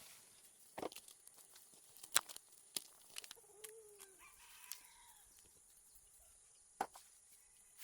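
A chicken gives a faint, short call about halfway through, among a few scattered light knocks and clicks.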